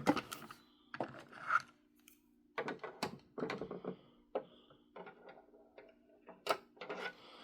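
Small screwdriver clicking and scraping against a tiny screw in a plastic toy car body, in short irregular bursts with handling knocks; the tip is slipping without gripping the screw, which is taken to be too sharp a tip.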